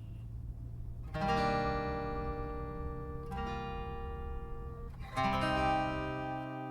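Background acoustic guitar music: strummed chords left to ring, a new one about every two seconds, over a low rumble that stops near the end.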